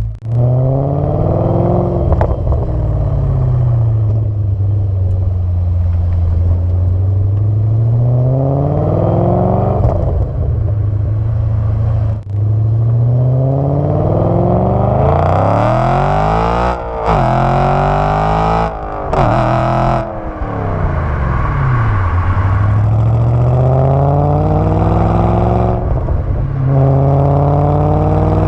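A car's engine and exhaust, revved repeatedly, the pitch rising and falling over a few seconds at a time. About two-thirds through it climbs to high revs, with two sudden drops.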